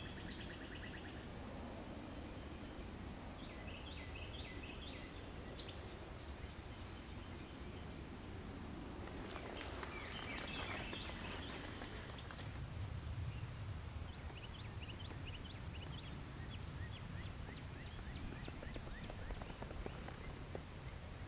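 Wild birds singing: bursts of quick, repeated chirping trills come every few seconds, over a faint, steady high-pitched drone.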